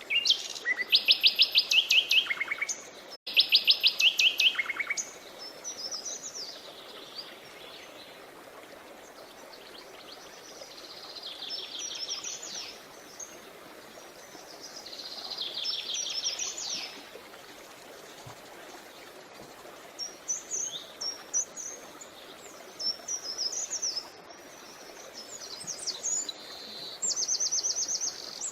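Songbirds singing: two loud, rapid trills in the first five seconds, then softer trills and short chirping phrases, over the steady murmur of a flowing creek.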